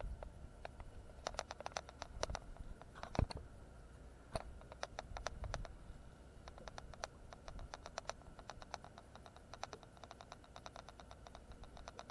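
Runs of quick, sharp clicks from a fishing reel being cranked, coming in bursts with pauses between them, and one louder knock about three seconds in.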